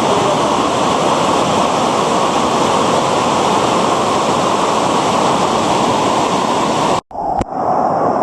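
River rapids rushing loudly and steadily, cut off abruptly about seven seconds in by a short dropout and a click, after which a quieter, different background follows.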